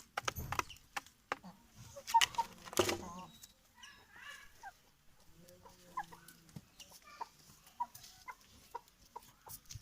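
Aseel chickens clucking in short calls, with sharp clicks and taps among them, the loudest about two to three seconds in.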